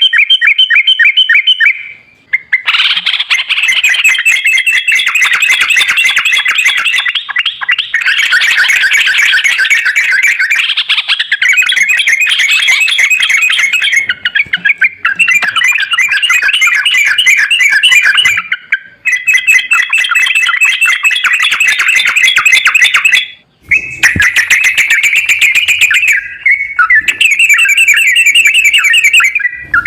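Sooty-headed bulbul (trucukan) song played as a lure: rapid, dense chattering and warbling that runs almost without a break. It stops abruptly for a moment several times, at the joins between spliced recordings.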